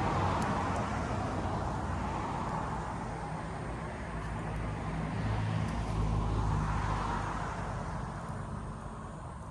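Road traffic passing: a vehicle fading away, then another swelling about six seconds in and fading out, with a low engine hum under the tyre noise. A few faint crackles from a campfire.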